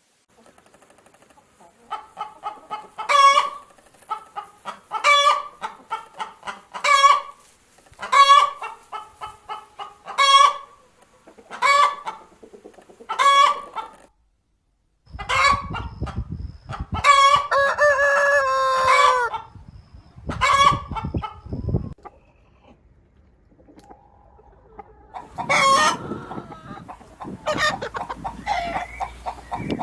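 Hens cackling: runs of short clucks, each ending in a loud squawk, repeated about every two seconds. After a brief break, a rooster crows once in a long call that falls at the end, followed by more clucking near the end.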